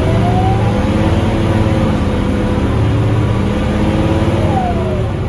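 Scania K310UB bus's five-cylinder diesel engine running under way. A drivetrain whine rises in pitch in the first second, and another falls away about four and a half seconds in.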